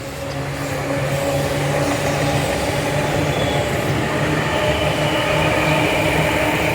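Tobu Tojo Line electric train passing close by: the rumble of the wheels on the rails swells over the first second, then holds loud and steady, with the whine of the electric traction motors running through it.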